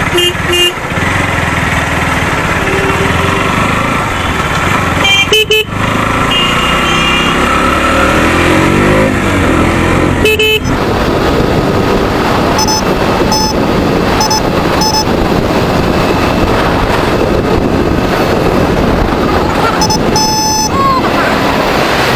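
Motorcycle running along a busy road, its engine noise mixed with heavy wind rush, while vehicle horns honk in short toots several times.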